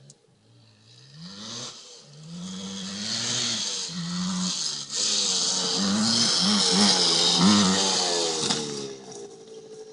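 Dirt bike engine revving as it is ridden, its pitch climbing and falling with the throttle, with several quick revs in the second half. It grows louder, then fades away about nine seconds in.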